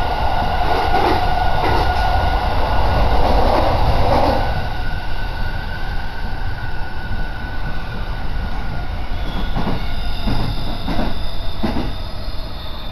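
Electric commuter train running, heard from inside the carriage: a steady rumble under a high whine that fades after about four seconds, with a few short knocks from the wheels near the end.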